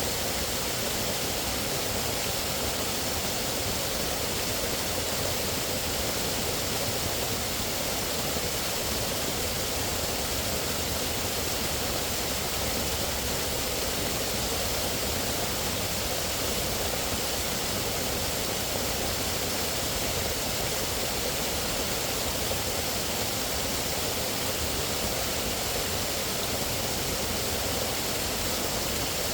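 Steady rushing of running water, an even noise at an unchanging level.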